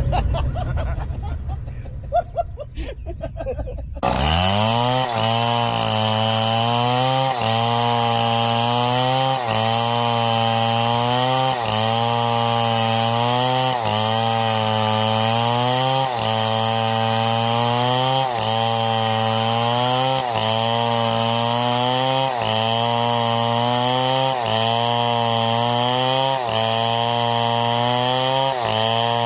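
A chainsaw starts in loud about four seconds in and keeps cutting, its engine pitch dipping and recovering about every two seconds as it works through the wood. Before that there is a few seconds of quieter, fading sound.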